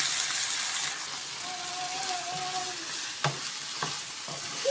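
Chicken breast, spinach and bell peppers sizzling steadily in a nonstick frying pan, stirred with a wooden spoon that knocks against the pan twice about three seconds in.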